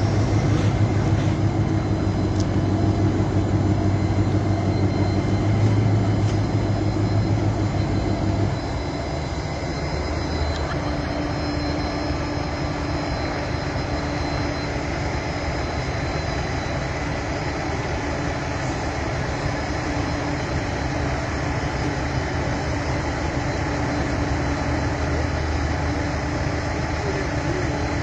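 Steady vehicle engine rumble that drops in level and pitch about eight seconds in, then runs on evenly.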